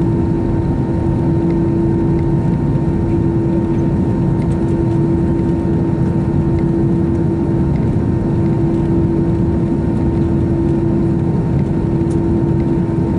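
Airbus A321 jet engines heard from inside the passenger cabin: a steady, loud drone of engine and airflow noise with a constant whine held through.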